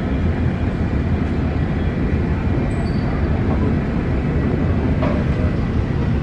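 Airbus A321 cabin noise on the ground after landing: a steady low rumble with a hiss over it.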